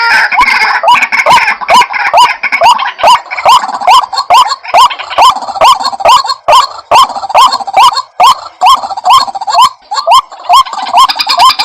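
White-breasted waterhen calls from a lure-call recording: a fast, even run of short notes that each rise sharply in pitch, about three a second, with more calls overlapping in the first second or so.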